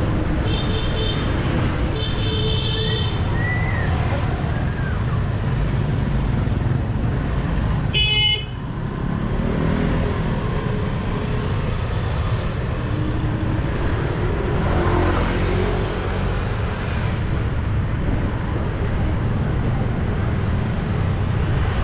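City street traffic running steadily, with a couple of short horn beeps in the first three seconds. About eight seconds in there is a brief sharp sound with a high ringing tone.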